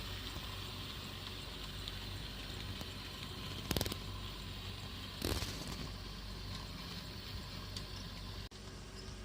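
HO-scale model Shay locomotive and freight cars running on track: a steady low hum and rolling noise. Two sharp clicks come about four and five seconds in, and the sound drops suddenly near the end.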